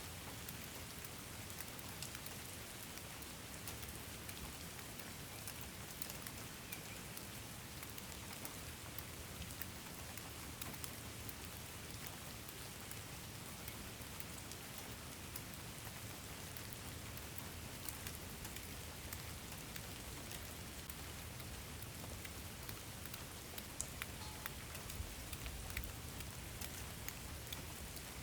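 Steady rain, with many separate drops ticking against a surface.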